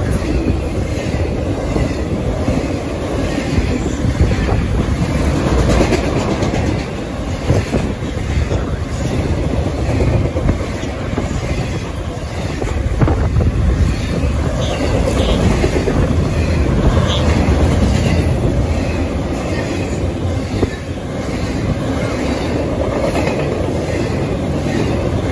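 Norfolk Southern intermodal freight train passing at close range: a steady rumble of freight cars with the clickety-clack of wheels over the rail joints.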